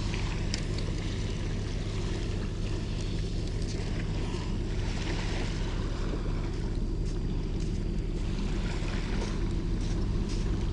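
Steady wind rumble on the microphone at the shore, with the wash of light surf.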